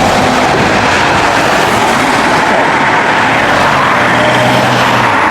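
Road traffic passing close at speed: a loud, steady rush of tyre and engine noise, with an engine note coming through in the second half.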